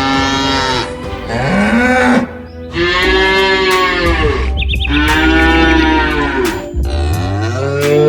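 Cattle mooing, about five long calls in a row, each rising and then falling in pitch, with steady music underneath.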